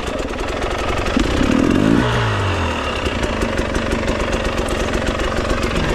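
Dirt bike engine revved once, rising and falling in pitch between about one and two and a half seconds in, then running at low revs with a fast, even chugging.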